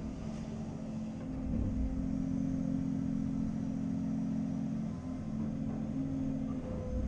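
Cat 330 Next Generation excavator's diesel engine running under working load, growing louder between one and two seconds in and easing briefly about five seconds in.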